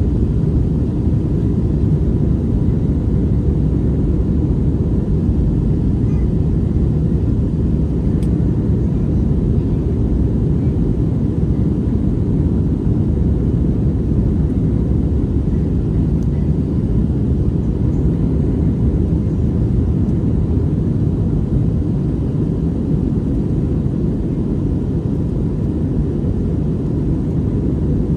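Steady low rumble inside the cabin of an Airbus A321neo airliner in flight: engine and airflow noise heard from a passenger seat.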